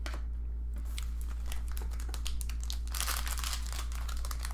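Crinkling and crackling of a foil trading-card pack wrapper being handled and torn open, many small crackles that get denser in the second half, over a steady low hum.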